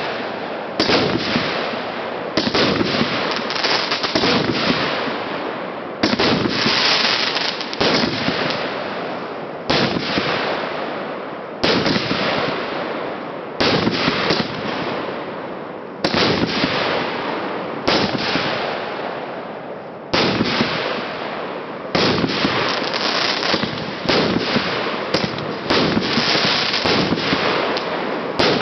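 A 50-shot consumer fireworks cake (SU-50 'Mriya') firing shot after shot, roughly one every one to two seconds, each launch thump followed by a long crackling burst that fades before the next.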